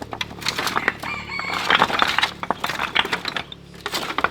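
A chicken calls briefly about a second in, over a run of short knocks and clatters from things being poured out and handled.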